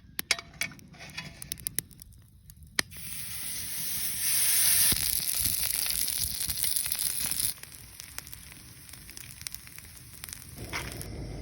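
Food sizzling on a hot multi-griddle pan. A few light clicks and taps come first, then the sizzle starts suddenly about three seconds in. It stays loud for several seconds, then drops abruptly to a fainter hiss.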